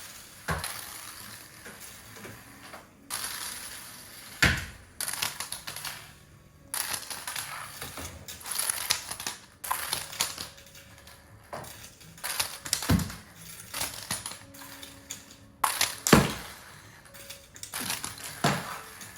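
Toy monster truck's loose-pivoting wheels rolling and rattling across hard surfaces, with several sharp knocks along the way.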